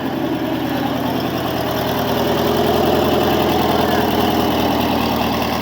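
A show car's engine rumbling at low speed as the car rolls slowly past, growing a little louder toward the middle and then easing off.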